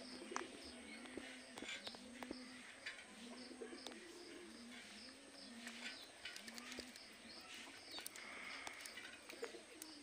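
A bird cooing: a steady series of soft, low notes, each rising and falling, about one a second. Faint high chirps and a few sharp clicks sound alongside.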